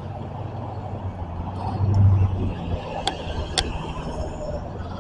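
A vehicle engine running steadily with a low hum that swells briefly about two seconds in, with a couple of sharp clicks a little after three seconds.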